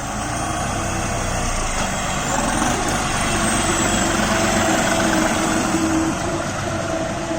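New Holland 5620 TX Plus tractor's common-rail (CRDI) diesel engine running steadily, fading out near the end.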